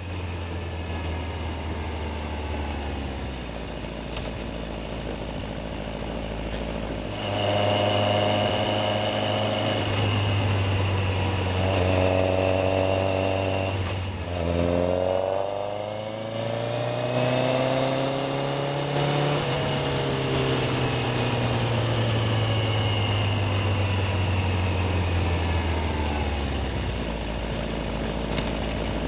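Yamaha XJR1300's air-cooled inline-four engine idling, then pulling away about seven seconds in. Its revs rise and fall several times through gear changes, then drop back to idle near the end.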